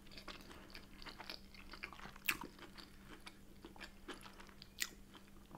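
Close-miked mouth sounds of someone chewing a soft brioche bagel with cream cheese and bacon: faint, wet little clicks, with two sharper ones about two seconds in and near the end.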